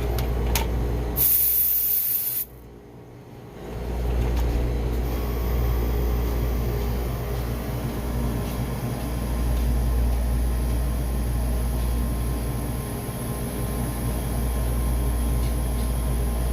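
A sharp hiss of escaping gas for about a second, then after a brief drop a steady low mechanical hum from refrigeration service equipment running on the beer cooler.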